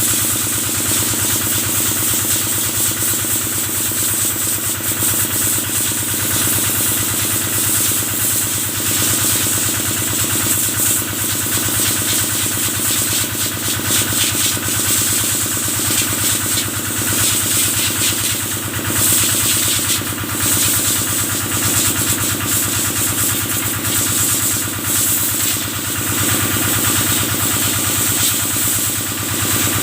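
Kubota engine running steadily, driving the water jet used to wash cattle, with a constant hiss of spraying water over the engine note.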